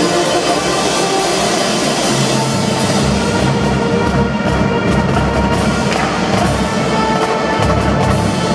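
Marching drum band playing: drums under held notes from melody instruments.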